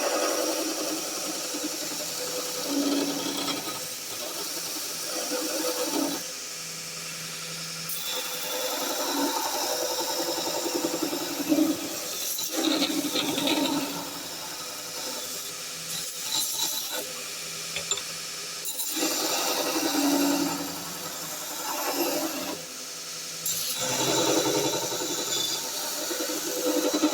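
Small 1x36 belt sander running, with a workpiece repeatedly pressed against the moving belt, so the grinding noise swells and eases every second or two over a steady motor hum. The motor holds its speed under the load without bogging down.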